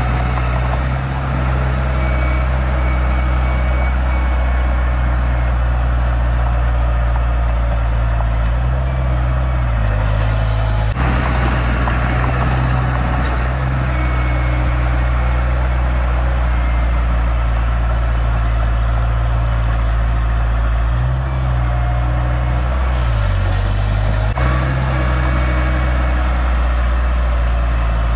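Heavy diesel earthmoving machinery running steadily with a deep engine drone, its pitch shifting briefly a couple of times as the load changes.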